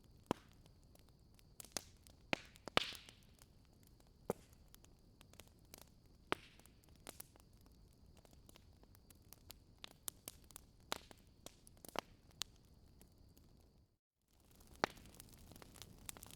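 Wood fire crackling: irregular sharp pops and snaps, a few louder than the rest, over a faint hiss with a faint high steady tone. About fourteen seconds in the sound cuts out completely for a moment, then the crackling resumes with a little more hiss.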